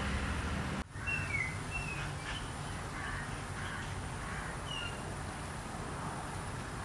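Outdoor ambience: a few short, high bird chirps over a low steady rumble. The sound cuts out for an instant just under a second in.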